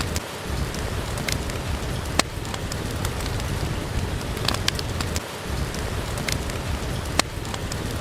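Steady rain falling, with a few sharp crackles and pops from a wood fire in a fireplace scattered through it.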